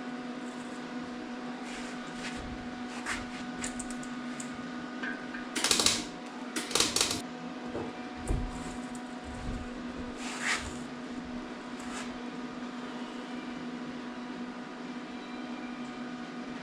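A steady electrical or machine hum with a few short clattering knocks and rustles, the loudest about six and seven seconds in.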